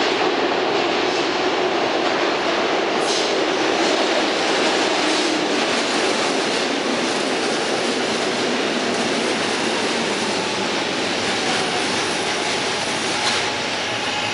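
SEPTA M4 subway train running into the station: loud steady rail noise with a low whine that slowly falls in pitch, and a few sharp clacks from the wheels over the rails.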